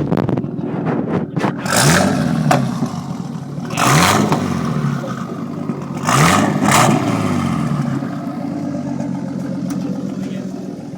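Datsun 280ZX Turbo's turbocharged 2.8-litre straight-six, on a full straight-pipe exhaust, idling and blipped several times. Each blip rises quickly and falls back to idle; two of them come close together about six seconds in.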